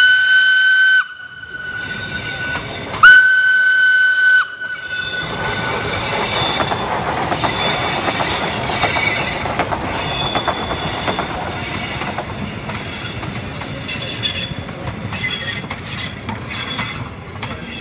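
Two blasts of a steam locomotive's whistle, each about a second long and scooping up in pitch at the start. Then trains roll past close by, a steady rumble with wheel clatter and faint high squeals.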